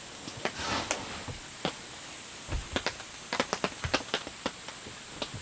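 Rain falling steadily, with irregular sharp taps and a soft low thud about halfway through.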